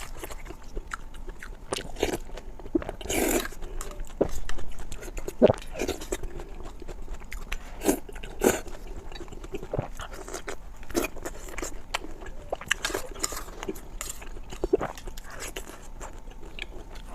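Close-miked eating: a person biting and chewing food, with irregular wet mouth clicks and smacks and a few longer slurping-like bursts.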